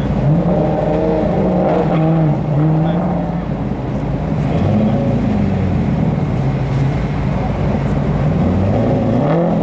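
Two drag-race cars idling at the start line, one of them a Lexus SC300 with a 2JZ straight-six, their engines blipped a few times, with rising revs just after the start and again near the end.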